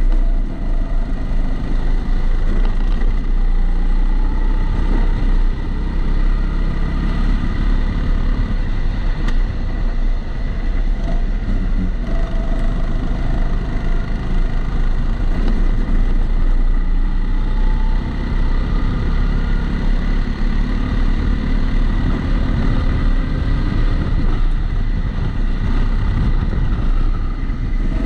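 Kombikart Eco rental kart engine heard onboard while lapping, its pitch rising and falling as the kart accelerates and slows through the corners. A steady high thin tone runs underneath, and the sound is dulled by the camera's protective housing.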